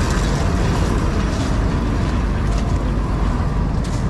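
John Deere 4400 combine running, a steady loud mechanical drone with faint ticks and rattles over it.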